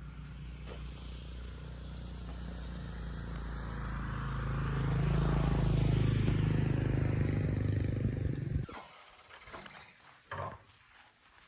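A motor vehicle engine, most like a motorcycle, running and growing louder over several seconds, then cutting off abruptly about three-quarters of the way in. A few light knocks and clicks follow.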